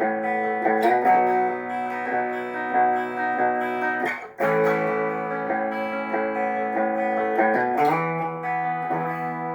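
Giannini GGX1 HH electric guitar played in a sound test after servicing: ringing chords that change every second or so, with a brief break about four seconds in.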